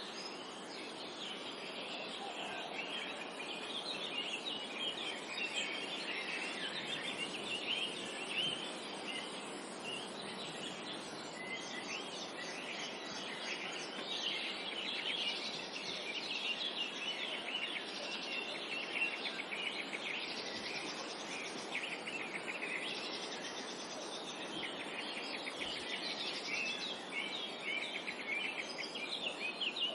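Forest birdsong: several birds chirping and trilling at once in a dense, overlapping chorus, over a steady background hiss.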